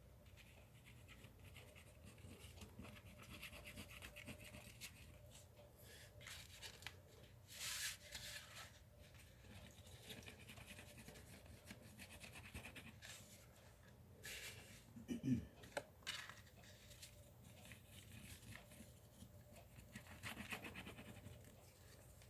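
Faint scratching and rustling of cardstock being handled and pressed down while gluing a panel onto a card base, with a few brief rubs and a short low sound about two-thirds of the way through.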